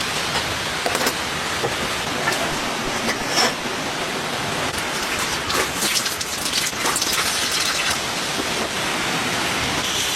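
Steady rain falling, with scattered louder drops ticking close by.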